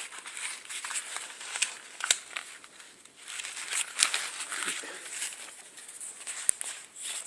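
Paper rustling and crinkling as magazines are handled, with a few sharp clicks about two, four and six and a half seconds in.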